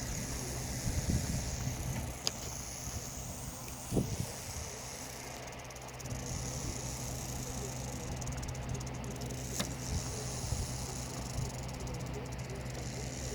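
Rattlesnake rattling, a steady high buzz, over a low steady hum, with a few soft bumps from handling.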